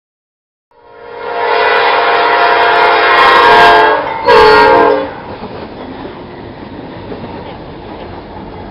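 Freight train locomotive's horn: a long chord-like blast of about three seconds, then a short second blast, followed by the steady rumble of the train running by.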